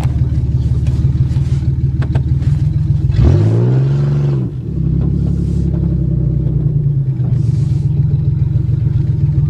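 Car engine running steadily while driving, with one brief rev that rises and falls about three seconds in.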